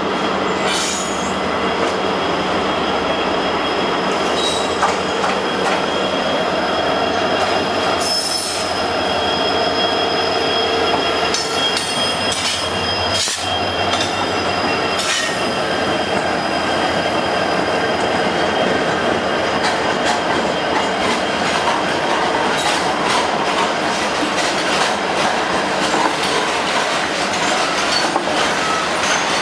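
Freight train wagons rolling past steadily, their steel wheels rumbling and clicking over the rails, with a high metallic wheel squeal through the middle part.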